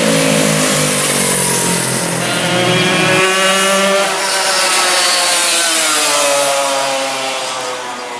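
Racing motorcycles passing at high revs, several engines overlapping with their pitch sliding up and down as they go by; a deeper engine note drops away about three seconds in.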